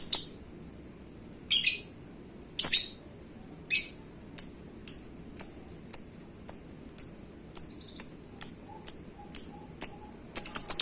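Lovebird giving sharp, high chirps one at a time, about a second apart at first and then speeding up to roughly two a second, before breaking into a fast chattering run of chirps near the end.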